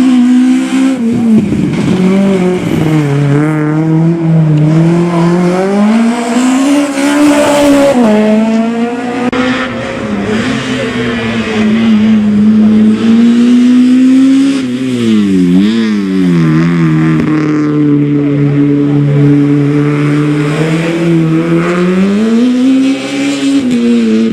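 Rally car engine revving hard, the pitch rising and falling continuously as the driver goes on and off the throttle, with quick wavering blips around the middle.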